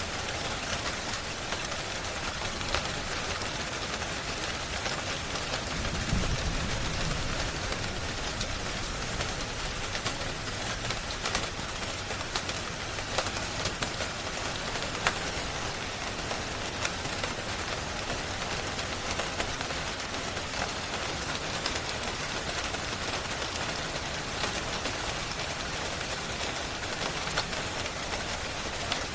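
Steady rain hiss mixed with the scattered sharp pops of a crackling wood fire, with a brief low rumble about six seconds in.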